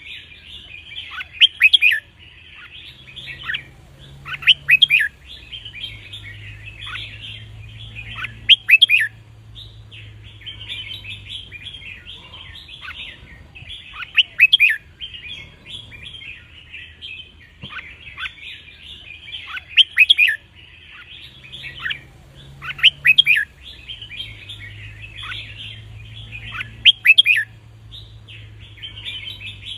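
Red-whiskered bulbuls singing: loud, clear song phrases ring out every few seconds over steady, busy chattering and twittering.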